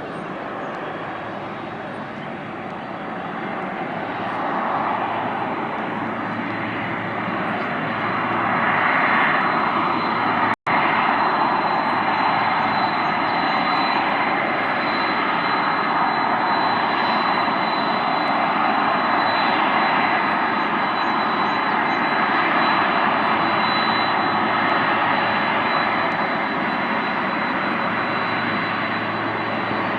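Jet engine noise of a Boeing 767-300 airliner: a steady rushing roar with a thin high whine that builds over the first several seconds and then holds loud. The sound cuts out for an instant about ten seconds in.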